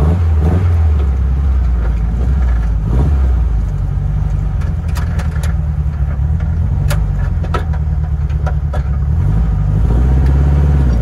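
The 1969 Barris Mini T's air-cooled VW flat-four engine running while the car is driven, its low drone shifting in pitch a few times as the speed changes.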